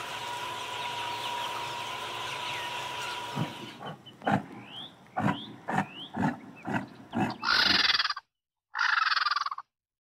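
Crowded broiler chicken shed with a steady background hum and faint peeps, then a Highland cow giving a run of short calls, about two a second, each rising in pitch. Two long breathy hisses follow near the end.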